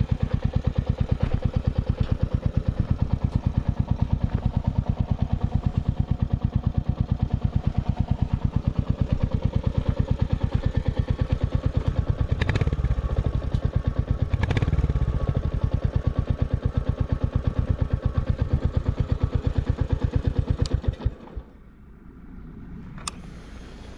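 Royal Enfield Bullet 350's single-cylinder engine idling with its even, rapid thump, briefly louder around the middle, then switched off about 21 seconds in, leaving only faint knocks.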